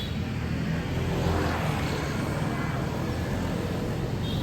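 Motor vehicle passing by, a steady engine-and-road rumble that swells about a second in.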